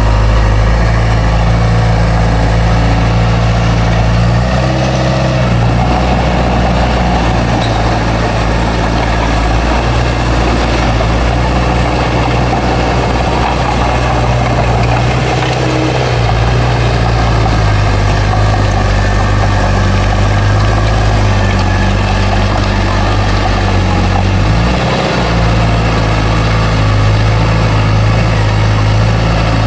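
Heavy diesel engine of earthmoving machinery running steadily, a deep drone with a few brief shifts in engine pitch as the load changes.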